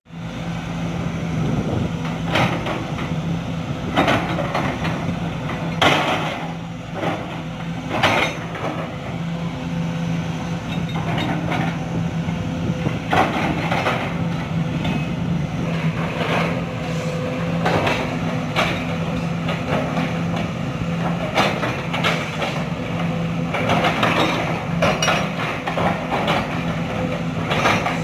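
Sumitomo SH210 hydraulic excavator's diesel engine running steadily, with sharp metallic knocks and clanks every few seconds.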